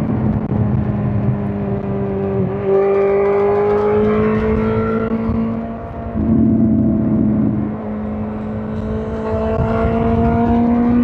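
Suzuki GSX-R1000 K5's inline-four engine running under way, its pitch slowly rising as it pulls. The sound dips briefly about six seconds in, then picks up and climbs again near the end.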